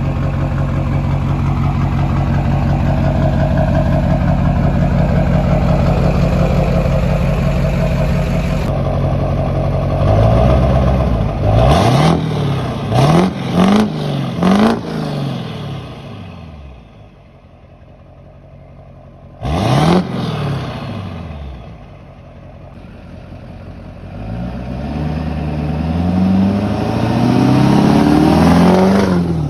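LB7 Duramax 6.6 L V8 turbodiesel, fitted with an S366 turbo, new injectors and a 5-inch exhaust, idling loudly, then blipped in four or five quick revs. After a lull there is another sharp rev, then a long pull with the pitch climbing as the truck accelerates.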